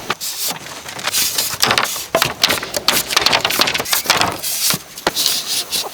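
Bamboo being worked by hand: a run of sharp knocks and cracks mixed with scraping and rubbing.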